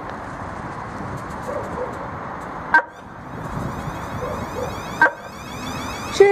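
Electric multiple-unit train standing at the platform with a steady hum, two short sharp sounds about two seconds apart, then its horn starting to sound right at the end as it begins to pull away.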